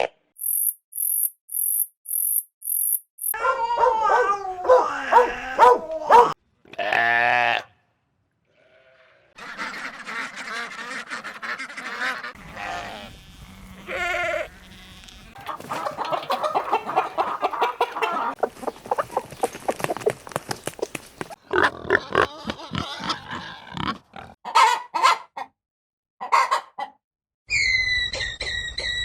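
A succession of farm animal calls from several different animals in turn: a quick run of very high chirps at the start, then a series of pitched calls of varying lengths, with a brief silence about eight seconds in.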